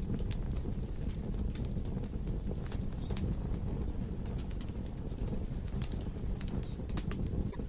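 Logs burning in a fireplace: a steady low rumble of flames with frequent, irregular sharp crackles and pops.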